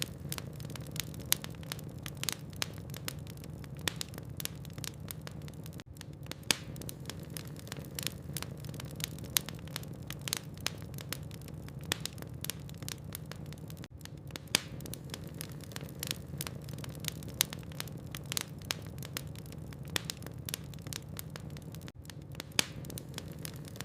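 Logs burning in a fireplace, crackling with irregular sharp pops and snaps over a steady low rumble of the fire.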